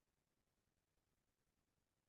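Near silence: no sound above a very faint noise floor.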